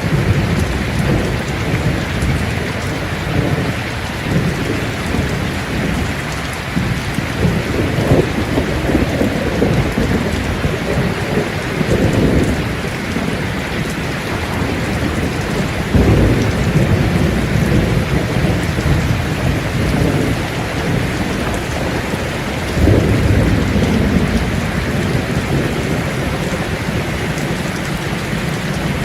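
Steady rain falling hard, with low rolls of thunder rumbling underneath and swelling several times, most strongly about 16 and 23 seconds in.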